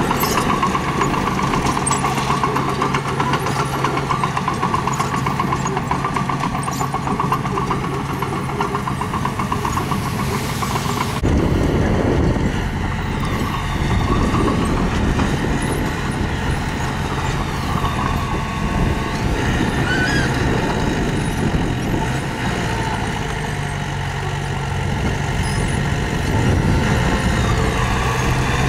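Diesel engines of a mini bulldozer and a stone truck running steadily under work, with a steady low hum. The sound changes abruptly about eleven seconds in.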